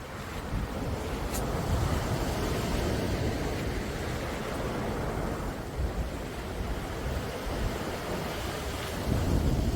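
Sea waves washing on the shore, swelling a couple of seconds in and again near the end, with wind rumbling on the microphone.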